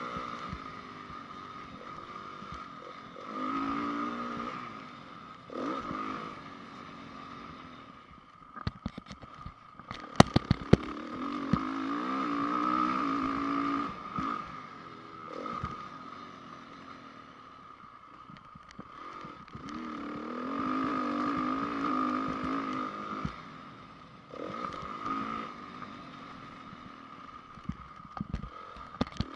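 Honda CRF450 single-cylinder four-stroke motocross engine revving up and falling back again and again as the bike is ridden round the track, with a cluster of sharp knocks and clatter about ten seconds in.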